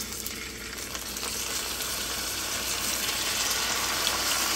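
Marinated chicken breasts sizzling as they are laid into a hot oiled nonstick frying pan. The sizzle grows steadily louder as more pieces go in.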